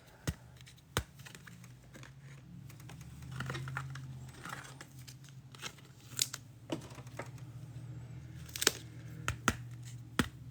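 Trading cards and foil pack wrappers being handled: scattered light clicks and taps with short crinkling and tearing rustles, over a faint steady low hum.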